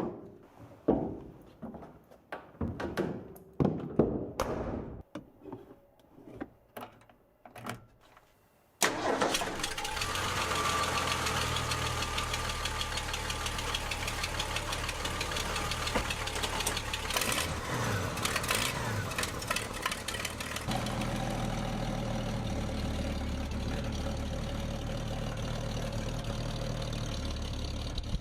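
A few scattered knocks and clunks, then about nine seconds in the 1978 Ford F150's engine starts and runs steadily at idle, its low note shifting about twenty-one seconds in.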